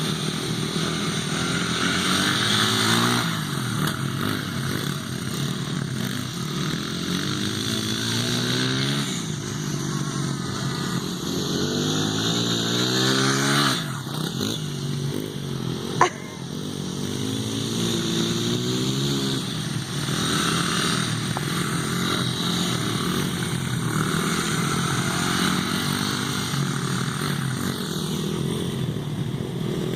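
Dirt bike engines revving up and down again and again as the bikes ride around, the pitches rising and falling and sometimes overlapping. A single sharp knock cuts through about halfway.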